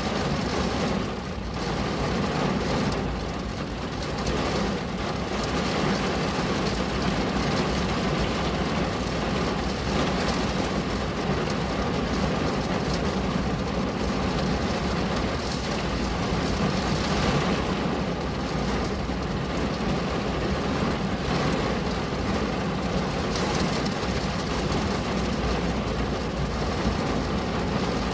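Steady rain on a window: a continuous, even hiss with a low rumble underneath.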